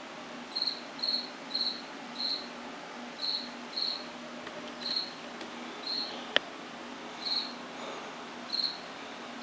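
A cricket chirping: about ten short, high chirps, spaced unevenly from half a second to over a second apart. One sharp click sounds about six seconds in.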